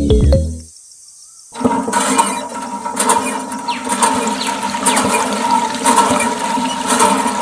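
Small electric water pump running, water gushing and splashing, with a steady motor whine under the rush; it starts about a second and a half in.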